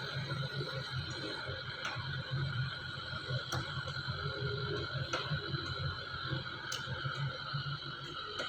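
XCMG compact excavator running at work, its diesel engine humming and rising and falling with load under a steady high hydraulic whine, with a few sharp clicks and knocks.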